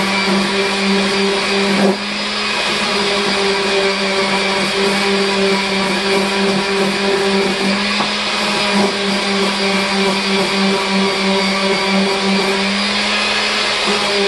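Electric power tool running steadily: a constant motor hum with a dense hiss over it, and a brief jolt about two seconds in.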